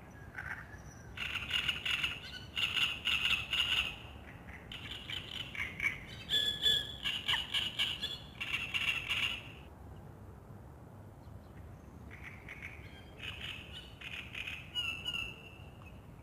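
Songbirds singing at dawn in quick trilled phrases: a run of song for the first ten seconds, a short lull, then more song near the end.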